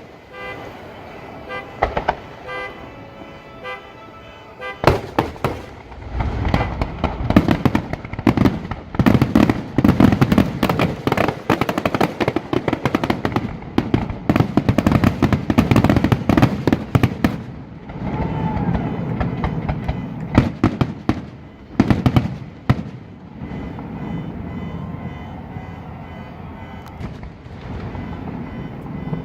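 Aerial fireworks going off. About five seconds in, a dense barrage of rapid bangs and crackling starts and runs for about twelve seconds. After that come a few scattered booms over a lower rumble.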